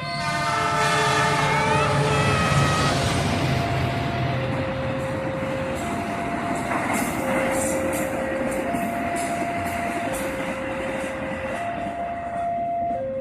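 Train passing at speed close by: a loud rush of wheels and carriages, with a horn-like blast in the first few seconds and rapid clatter of wheels over rail joints later on. Under it a two-note warning tone alternates steadily, typical of a level-crossing alarm.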